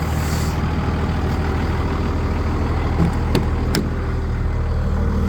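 Dodge Ram 2500's 5.9-litre Cummins turbo-diesel idling steadily, with a few short sharp clicks about three to four seconds in.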